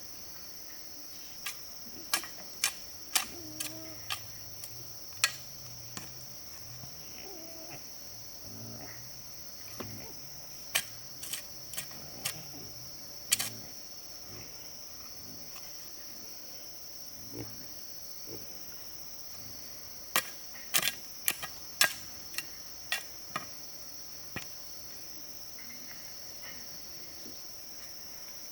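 Steady high-pitched insect chorus, typical of crickets or cicadas, with clusters of sharp clicks or knocks: several in the first few seconds, a few about a third of the way in, and another group about two-thirds through.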